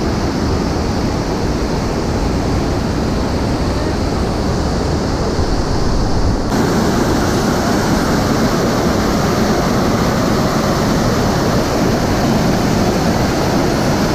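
Loud, steady roar of the Iguazú Falls' water crashing down, a dense rushing noise with deep rumble; its tone shifts abruptly about six and a half seconds in.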